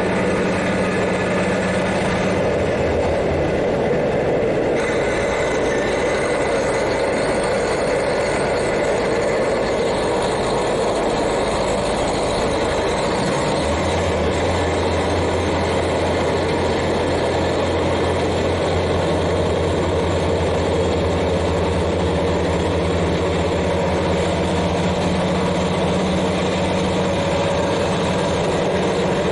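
KiHa 40 diesel railcar's N-DMF13HZI engine, heard from directly above it, running steadily while the car travels, with wheel and rail noise under it. The engine note shifts about two seconds in, and a deeper steady hum sets in about halfway through.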